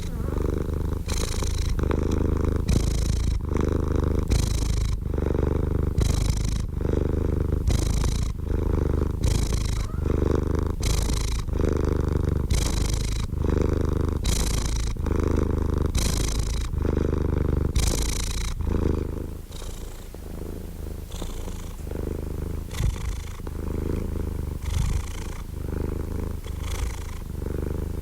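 Domestic cat purring steadily: a low continuous rumble with a breathy surge about once a second as it breathes in and out, easing a little in loudness about two-thirds of the way through.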